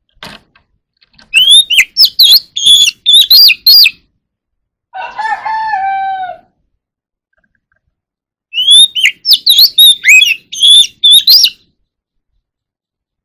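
Oriental magpie-robin singing two phrases of rapid, high whistled notes. Between the phrases comes one quieter, lower, drawn-out call that falls at its end.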